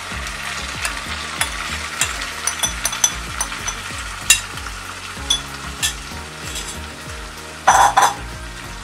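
Chopped tomatoes sizzling as they are dropped into hot oil and fried onions in a kadai, with a spoon clicking and scraping against the plate as it pushes them off. A louder knock comes near the end.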